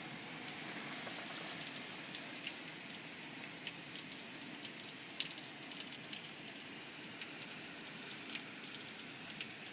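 Steady hurricane rain pouring down, with scattered drops ticking sharply close by.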